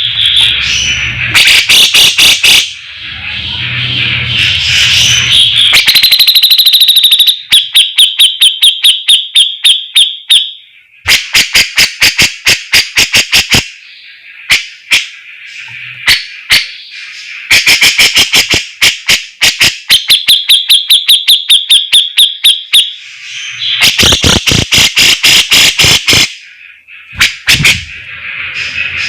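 Cucak jenggot (grey-cheeked bulbul) singing loudly and without pause. Its song alternates fast runs of sharp, clipped notes, several a second, with trilled phrases: the rattling 'besetan' style.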